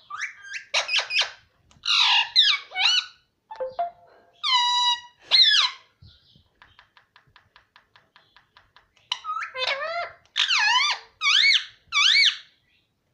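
Pet parrot making high, squeaky calls and chatter with rising and falling sweeps. Midway there is a quick run of small clicks, about seven a second, then a few more sweeping squeaky calls.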